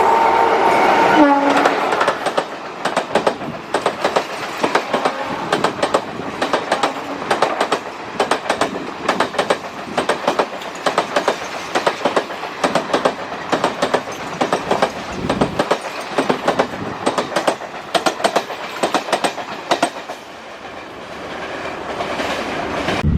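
A train horn sounds and cuts off about a second in. It is followed by a passing train's wheels clattering over rail joints in a fast, uneven rhythm, which eases off near the end.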